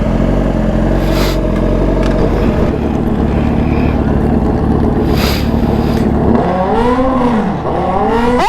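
Engine idling steadily, then revved up and down several times near the end.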